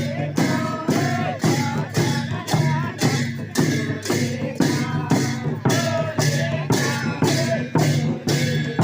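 Sakela festival music: a drum-and-cymbal beat at a little over two strikes a second, with a wavering sung or played melody over it.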